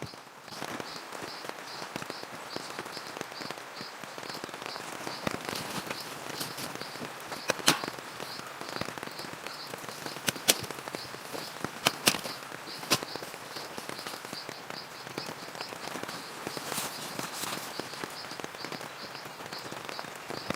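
Steady rain hiss with a high, even chirping about two or three times a second. Several sharp cracks or snaps stand out, the loudest of them in the middle of the stretch.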